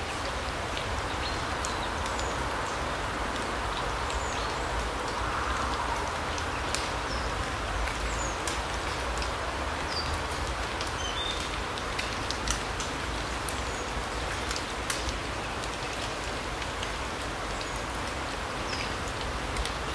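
Larch forest ambience: a steady rushing hiss with many scattered light ticks and a few brief, high bird calls.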